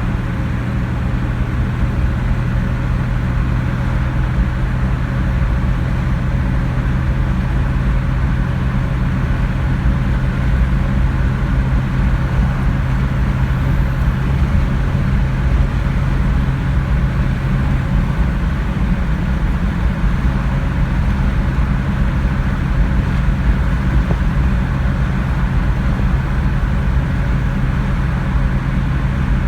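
1986 Jeep Cherokee V6 driving at a steady speed: a constant engine drone over low road rumble.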